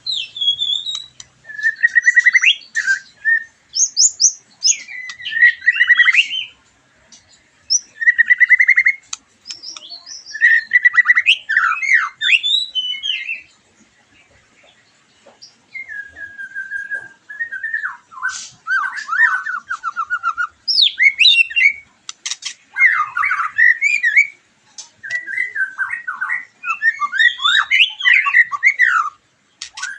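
White-rumped shama (murai batu) singing a long run of varied phrases: clear whistles, fast trills and sharp clicking notes, with a short pause about halfway through.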